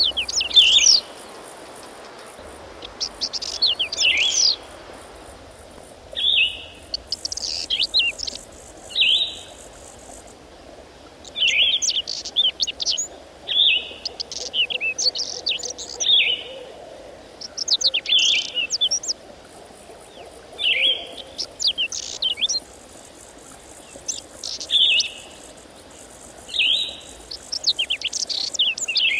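A songbird singing short, rapid phrases of high notes, one phrase about every two seconds.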